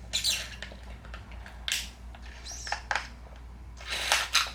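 Snow crab leg shells being cracked and broken open by hand: a few irregular sharp cracks and crunches, the loudest cluster near the end.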